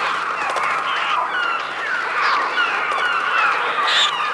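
Electronic bird cries made on a Mixtur-Trautonium: a dense flock of many overlapping short chirps and screeches, mostly falling in pitch, over a faint steady low hum.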